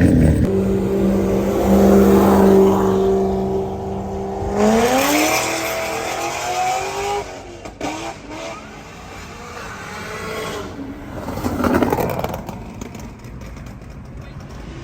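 High-horsepower street car engine holding a steady note, then about four and a half seconds in revving up hard in rising steps as it accelerates away, fading. A shorter swell of engine noise comes near the end.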